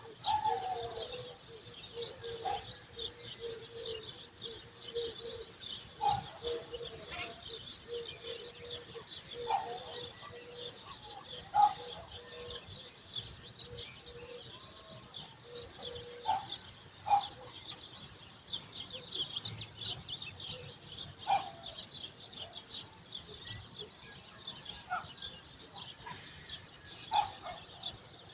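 Dawn bird chorus: many small birds chirping continuously in a dense high chatter, with louder single calls breaking through every second or two. A low, rapidly pulsing note runs underneath and stops about sixteen seconds in.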